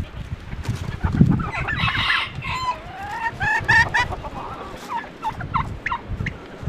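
Chickens clucking and calling, with a louder call about two seconds in, over the low rumble of strong wind on the microphone.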